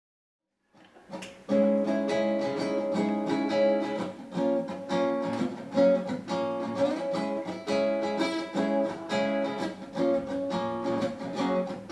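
Acoustic guitar strumming chords as a song's instrumental introduction, coming in about a second in, with steady repeated strokes.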